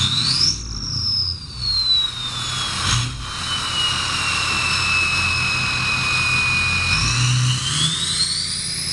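The 6.0 Power Stroke V8 diesel's swapped-in 2003 10-blade variable-vane turbocharger whistling as the engine is revved. The whistle rises sharply about half a second in, slowly falls over several seconds as the revs drop, then rises again near the end. The low rumble of the engine through a straight-piped, muffler-less exhaust runs beneath.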